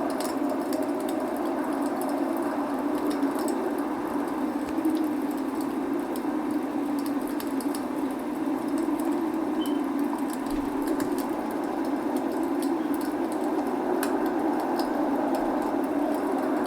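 Log fire crackling, with many small sharp pops scattered irregularly over a steady rushing background of rain.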